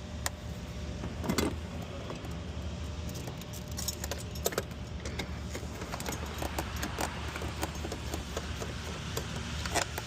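Irregular light metallic clinks and taps of hand tools and hardware being handled, with a few louder knocks, over a steady low background hum.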